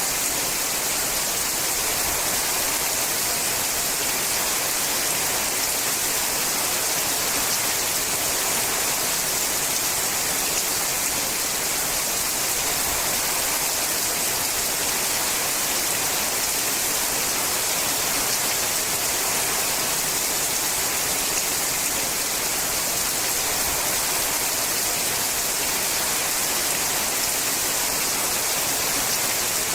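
Steady, heavy rain falling on a sheet-metal roof, an even, unbroken hiss.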